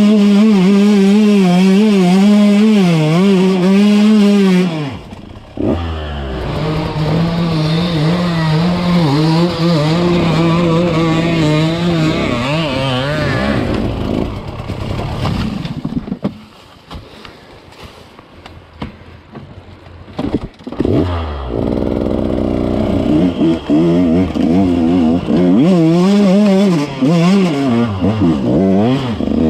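Enduro dirt bike engine under varying throttle while riding, its pitch rising and falling as the rider blips and rolls on the gas. It drops sharply about five seconds in, and about halfway through it falls away to a quieter low running for a few seconds before revving up again.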